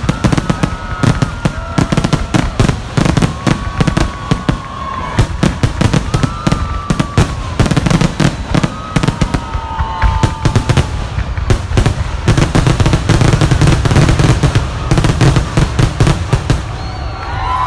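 Aerial fireworks going off in a rapid, almost continuous barrage of overlapping bangs and crackles, with drifting high tones over them.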